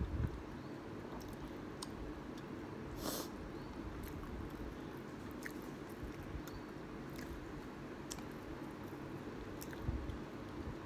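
Close-up chewing of kimchi ramen noodles, with small faint clicks throughout and one short, louder noisy sound about three seconds in.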